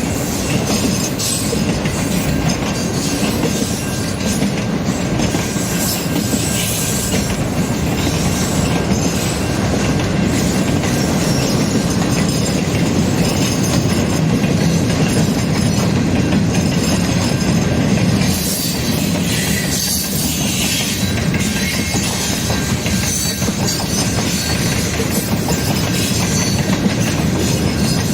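A CN mixed-freight manifest train's cars rolling past, their wheels clattering over the rail joints in a loud, steady run.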